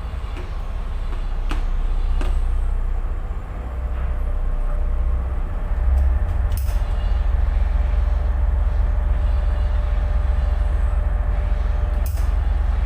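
Tugboat's diesel engine running with a steady, loud low rumble and a faint steady hum, with a few short clicks.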